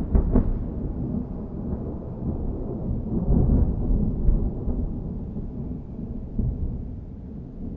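Thunder rolling just after a close clap: a deep rumble that swells and ebbs and slowly dies away.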